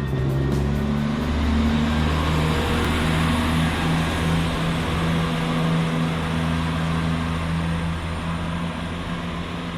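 Passenger train running, a steady low hum over even rolling noise.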